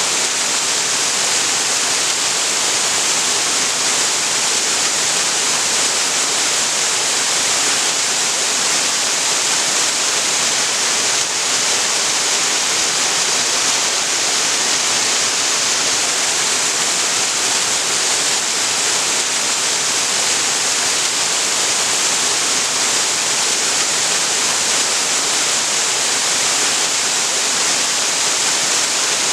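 Waterfall: water falling and splashing into a creek, a loud steady rushing hiss that stays even throughout, brightest in the high range.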